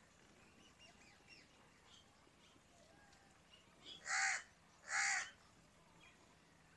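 A bird calling twice with loud, harsh caws a little under a second apart, about four seconds in, over faint chirping of small birds.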